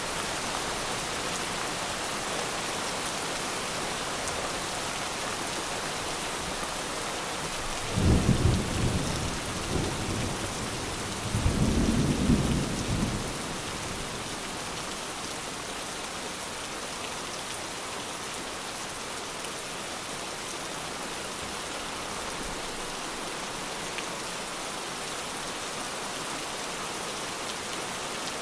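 Steady rain falling, with two low rolls of thunder about eight and twelve seconds in.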